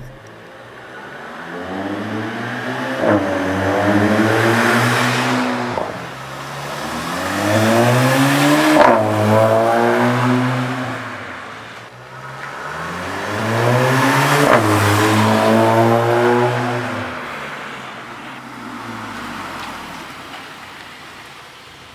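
Skoda Octavia RS with an aftermarket APR cat-back exhaust driving past three times under acceleration, the exhaust note rising in pitch and swelling as the car approaches, then fading as it moves away.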